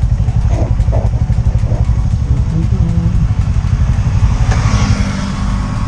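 Motorcycle taxi running, a loud steady low rumble of engine and road noise, with a brief hiss from about four and a half seconds in.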